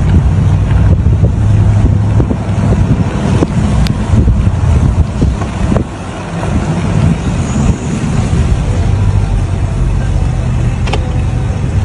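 A motor vehicle running, with a steady low rumble and scattered small clicks and knocks; the sound drops briefly about halfway through.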